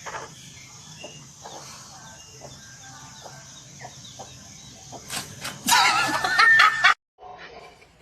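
Animal calls: faint scattered noises, then loud wavering squawks about five seconds in that cut off suddenly just before seven seconds.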